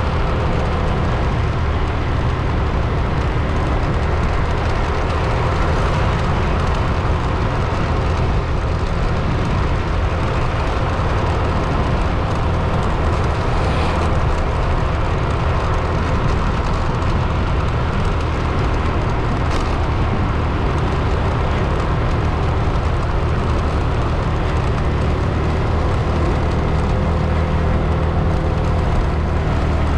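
Steady engine and road noise of a vehicle driving along, a constant low rumble without breaks.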